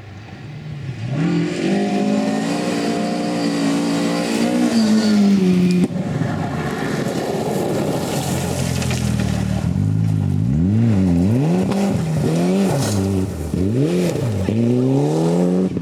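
Rally car engines at full throttle on a stage: a note climbs about a second in and holds high, then after a cut several quick rises and falls in pitch as the driver revs up and lifts off through the gears and corners.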